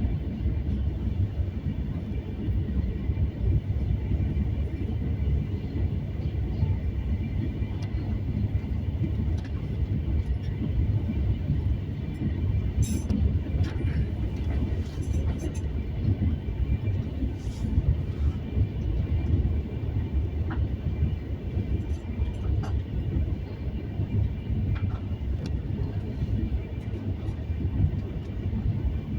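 Train rolling by: a steady low rumble of wheels on rails, with a few sharp clicks.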